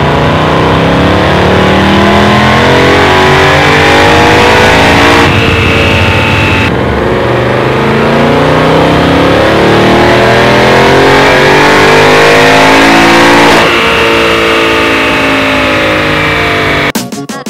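Supercharged 5.0 V8 of an S550 Ford Mustang GT at full throttle on a chassis dyno, revs climbing steadily in two long runs with a short break around five to seven seconds in, then easing off near the end.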